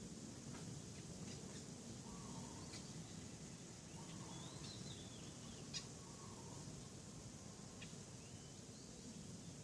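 Faint outdoor ambience: birds calling now and then in short wavering phrases over a low steady background noise, with a few light clicks, the sharpest one a little past halfway.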